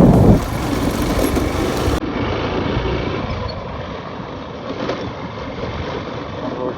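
Motorcycle engine running at low speed, with rushing wind on the microphone; loudest at the very start, then steadier and quieter after about two seconds.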